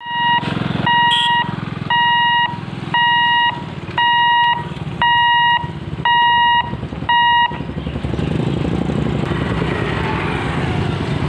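Electronic level-crossing warning beeper sounding seven times, one steady beep about every second, then stopping. Underneath, a steady rumble of idling engines and road traffic that grows once the beeping ends.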